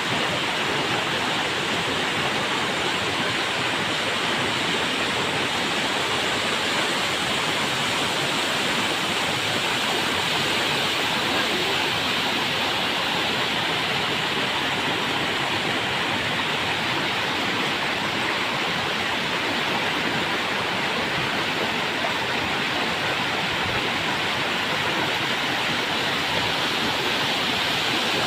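River water rushing steadily over rocks, an even, unbroken sound.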